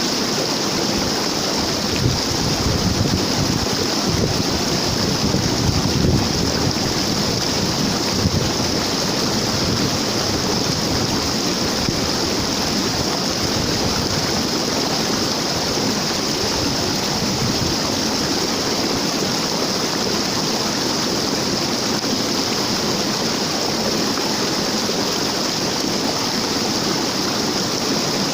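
Waterfall rushing steadily, an unbroken wash of falling water, with a few low bumps in the first several seconds.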